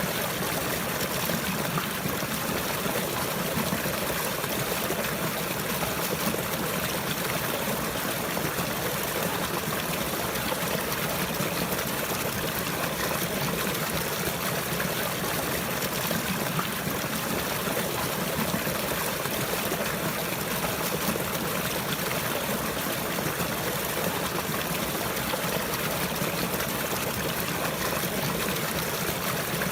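Running water trickling and flowing steadily, like a small stream, with no breaks or changes.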